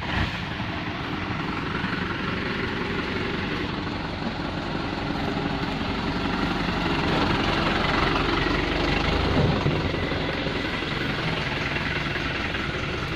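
Mitsubishi Colt Diesel dump truck's diesel engine running steadily. It grows somewhat louder toward the middle, with a brief rise in pitch about nine and a half seconds in.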